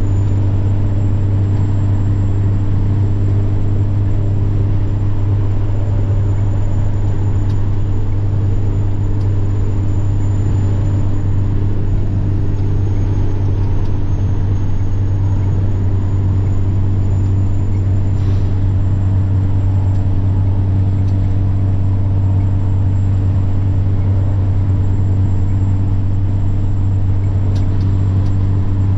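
Semi truck's diesel engine running steadily at cruise, a deep even drone with a thin high turbo whine over it. The whine sags a little about halfway through and rises back again.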